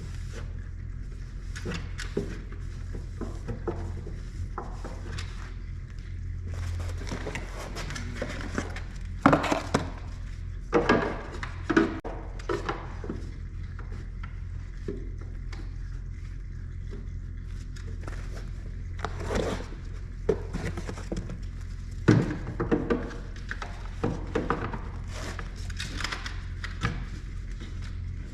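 Scattered metallic clinks, clanks and knocks of tools and parts being handled while servicing a skid steer, over a steady low hum.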